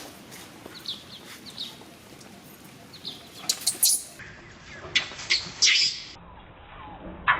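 Short high-pitched animal squeaks and chirps, faint and scattered at first, then louder and closer together in the second half, several with a sharp clicky onset.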